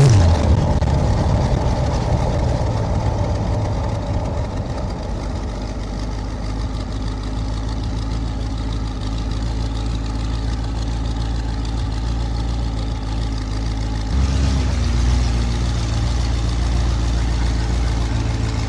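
V8 engine of a chopper trike running at low revs, its note easing down over the first few seconds and then holding steady, with a jump to a heavier low rumble about fourteen seconds in.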